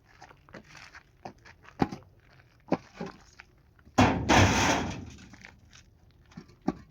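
Scattered knocks and clicks of things being handled, then a loud rushing, scraping noise that starts suddenly about four seconds in and fades within about a second.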